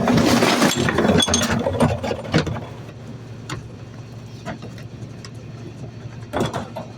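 Garbage truck: a loud, noisy clatter and rush for about the first two and a half seconds, then the truck's engine running steadily with scattered clicks and knocks, one louder knock near the end.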